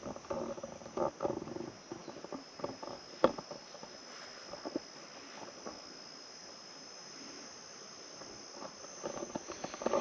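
Steady high-pitched insect chorus, with faint knocks and rustles over the first few seconds and one sharp click about three seconds in.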